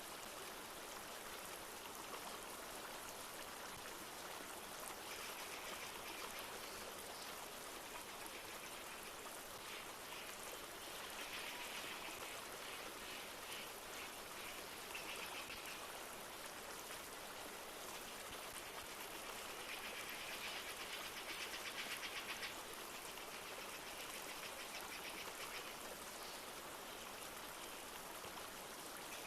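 A river flowing steadily with light rain falling, and rapid trilling animal calls in several bursts of a few seconds each, the loudest about two-thirds of the way through.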